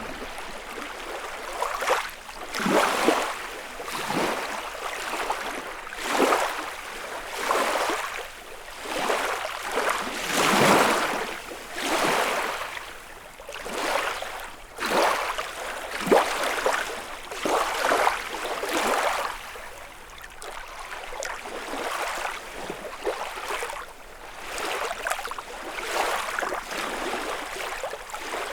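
Small waves lapping and splashing on the lakeshore of Lake Kussharo, one wash about every one to two seconds. The washes ease off somewhat after about twenty seconds.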